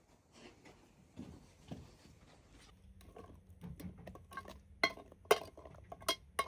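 A series of irregular clicks and knocks from objects being handled, sparse at first, then louder and more frequent in the second half.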